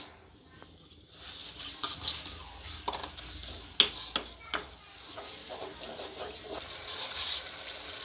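Ginger-garlic paste frying in hot oil with fried onions in a kadhai, sizzling louder and louder as it is stirred, with a spatula knocking and scraping against the pan several times in the middle.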